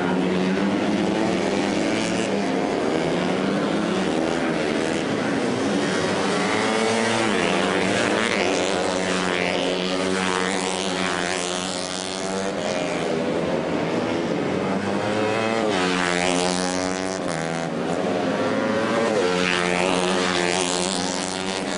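Racing motorcycle engines revving hard as the bikes pass, several at once, their pitch rising and dropping repeatedly with falling sweeps as they go by.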